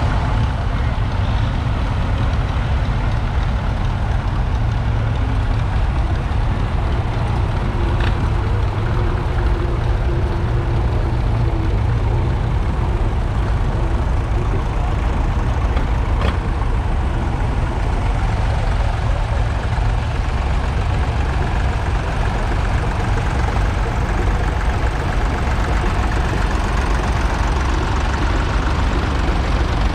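Vintage tractor engine running steadily with a deep low rumble.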